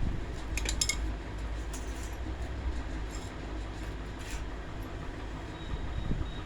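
Light metallic clinks and taps from parts being handled during a table fan repair, a handful spread over a few seconds, over a steady low hum.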